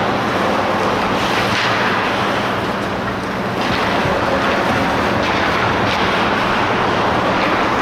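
Steady rushing ambience of an ice hockey rink during play, with a low machinery hum underneath and several short scrapes or knocks scattered through it.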